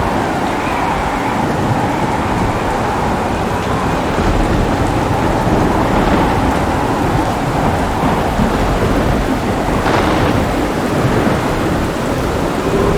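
Heavy rain pouring steadily with rolling thunder rumbling underneath, and a brief sharper crack of thunder about ten seconds in.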